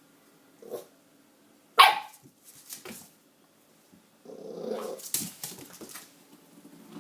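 Dog barking in short separate barks: one loud bark about two seconds in, softer ones around it, and a longer run of barking near five seconds.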